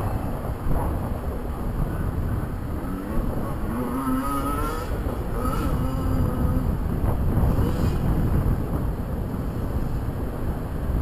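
Yamaha YZ85 two-stroke dirt bike engine revving on the track, its pitch rising and falling a few times in the middle, over wind rumble on the microphone.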